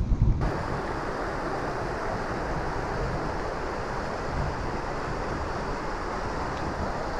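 Steady rushing of a muddy stream of rain runoff after a torrential downpour. A low rumble gives way abruptly, about half a second in, to an even rush of water.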